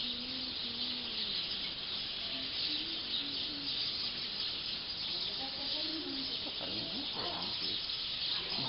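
Dense, continuous chatter of a large flock of black birds settling into a roost tree, many calls blending into one steady din.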